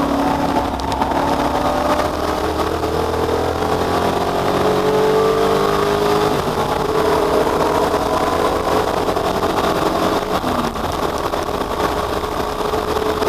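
Racing car engines under load, their pitch climbing steadily and dropping sharply at gear changes about six and ten seconds in.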